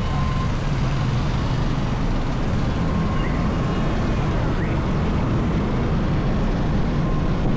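Steady riding noise from a motorcycle moving through city traffic: engine drone and wind rush on the microphone, with no sudden events.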